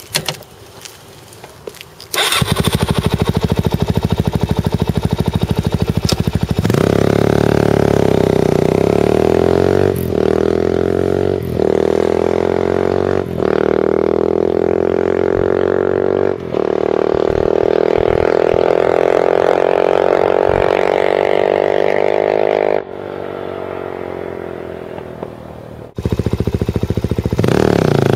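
Suzuki DR-Z400SM's single-cylinder four-stroke engine through an FMF full exhaust system. It comes in loudly about two seconds in and runs with a slowly rising pitch, broken by several brief dips, then falls quieter near the end before coming back up loud.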